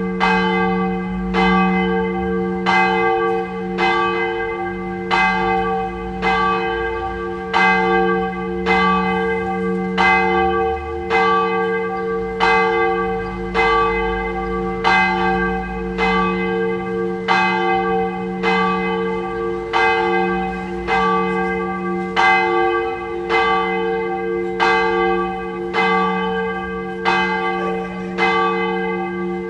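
Church bell tolling at an even pace, about one stroke every 1.2 seconds, each stroke ringing on into the next so a steady hum lies under the strikes.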